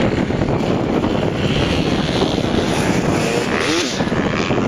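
Motocross dirt bikes running, with one engine briefly revving up about three and a half seconds in.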